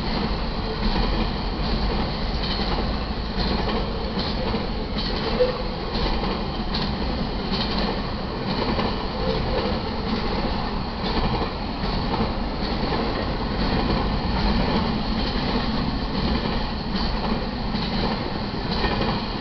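Double-stack intermodal container cars of a freight train rolling past at a steady speed: a continuous rumble and rattle of the cars, with scattered clicks from the wheels on the track.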